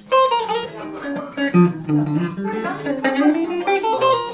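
Electric guitar, a Telecaster played through a Roland JC-120 amp, playing a melodic phrase of single notes with some pitch bends, starting just after a brief pause.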